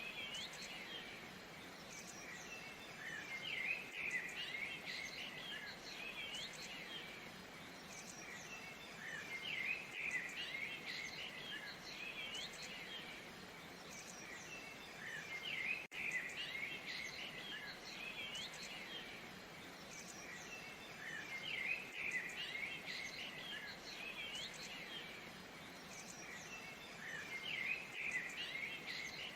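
Steady rush of a waterfall under the busy chirping and whistling of many small birds, with a brief dropout about halfway.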